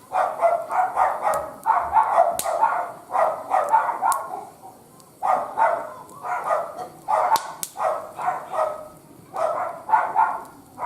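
A dog barking in quick runs of short barks, several barks a second, with brief pauses between the runs. A few faint sharp clicks sound alongside.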